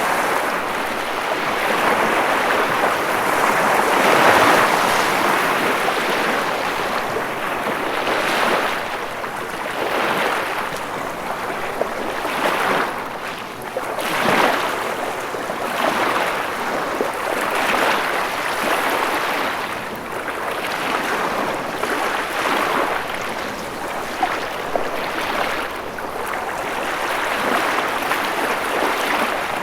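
Ocean waves: a continuous rushing wash of surf that swells and eases every couple of seconds.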